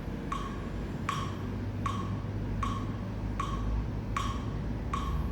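A metronome clicking steadily about once every three-quarters of a second, roughly 78 beats a minute. The beat is set as a putting tempo. A low steady hum runs underneath.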